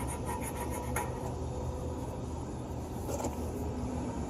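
Copper refrigerant tubing being sanded to clean it for a brazed joint, quick back-and-forth rubbing strokes that stop about a second in. A steady low hum runs underneath.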